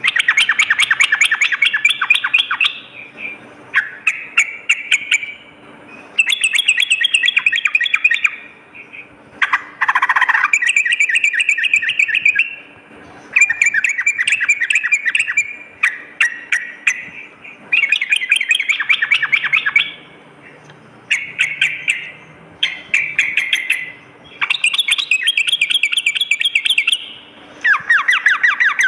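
Yellow-vented bulbul (trucukan) singing loud, rapid bubbling phrases of about two to three seconds each, repeated again and again with short pauses between them.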